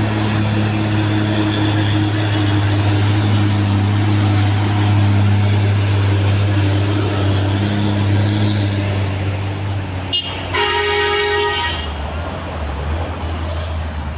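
Truck engine running steadily, then a single vehicle horn toot lasting about a second, a little after a sharp click near the end.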